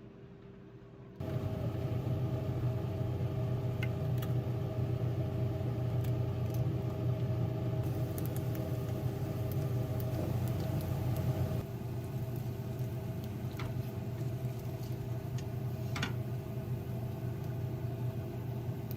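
A steady low machine hum that switches on abruptly about a second in, holding a few constant tones, with a few faint clicks over it. It drops slightly in level a little past halfway.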